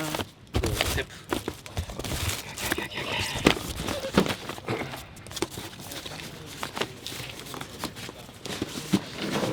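Gear being handled and packed: irregular knocks, clicks and rustles of items being picked up and set down.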